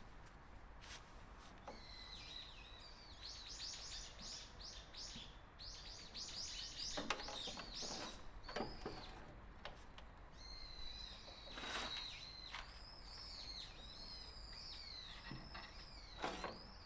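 Small birds singing faintly, with rapid trills of high chirps and gliding whistles, and a few short knocks in between.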